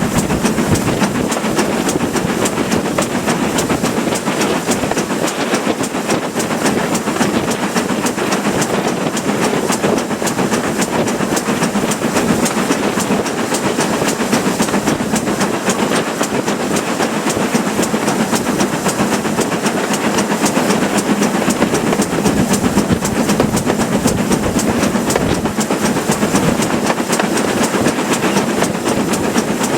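Steam train hauled by a GWR Manor-class locomotive, running steadily along the line: an even, unbroken rush of wheel-and-rail noise that holds level throughout.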